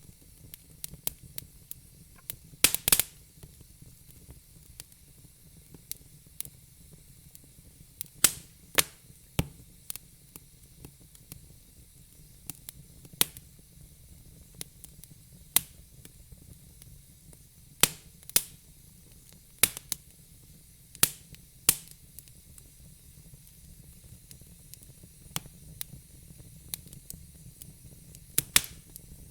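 Wood fire crackling in a fire pit: irregular sharp pops and snaps from the burning logs over a steady low hiss, with the loudest pops about three seconds in and again near the end.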